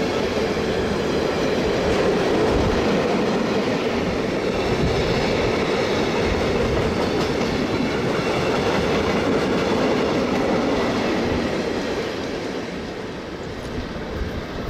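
Train running along the track: a steady rumble and rush of wheels on rails, easing somewhat near the end.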